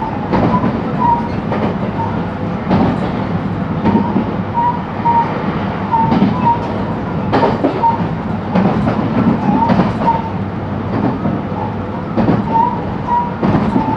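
Running sound inside a JR West 223-series electric multiple unit motor car: a steady rolling rumble with rail-joint clacks about once a second, and short high squeaks recurring throughout.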